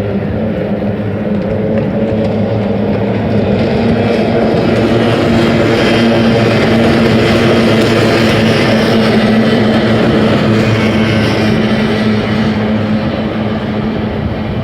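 Kyotei racing boats' two-stroke outboard engines running at speed. The steady, high engine note grows louder toward the middle as the boats come past, then eases slightly.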